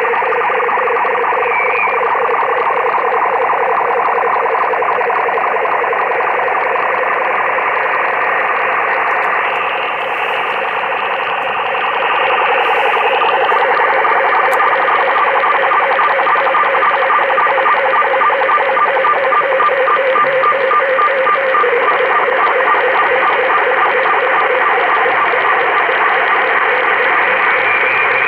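Amateur radio receiver on the 20-meter band putting out a steady, strange interference noise with a fast pulsing texture; the operator is not sure whether it comes from parking lot lights or something else. It gets a little louder about twelve seconds in.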